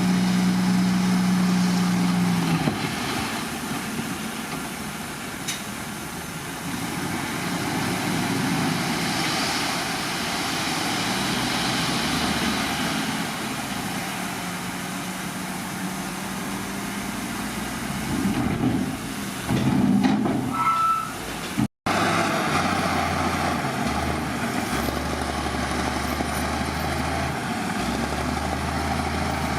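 Diesel engines of heavy earthmoving machinery, a bulldozer and a dump truck, running and working, their engine note shifting as they work. There is a short rough burst with a brief rising squeal about two-thirds of the way through, then a momentary cut in the sound.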